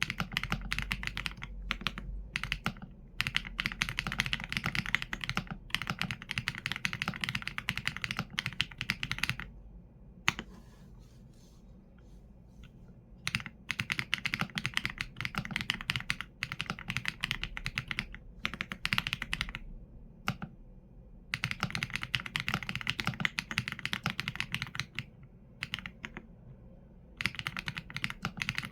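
Typing on a Qsenn A75 mechanical keyboard with Leobog Graywood V4 linear switches and PBT keycaps: fast runs of keystrokes, with a pause of about three seconds around ten seconds in and a shorter one near the end.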